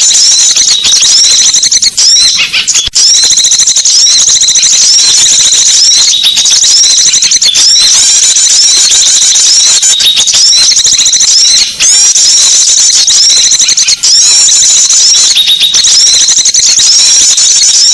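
Loud recording of many small songbirds chirping and trilling at once, a dense high-pitched chorus without pause, played as a lure call to draw small birds in.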